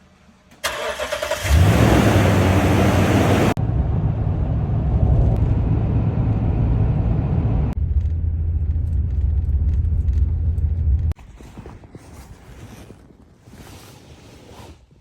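Toyota Tundra pickup's engine starting: a short crank, then it catches and runs loudly with a brief rise in revs before settling to a steady low run. After about eleven seconds the engine sound stops, leaving quieter knocks and rustling.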